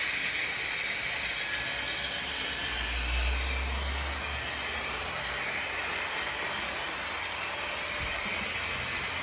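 HO-scale model train running along the layout's track with a steady whirring hiss. A brief low rumble comes in about three seconds in.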